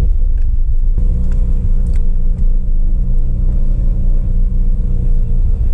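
Car driving at a steady pace: a low, steady drone of engine and road noise.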